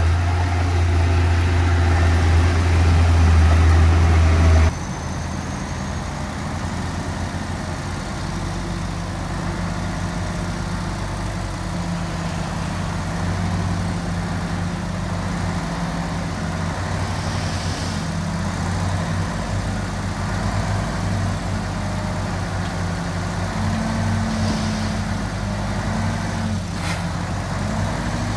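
Diesel engine of earthmoving machinery running: loud and deep for about five seconds, then it cuts off abruptly to a quieter engine whose pitch rises and falls a few times near the end. One sharp click comes shortly before the end.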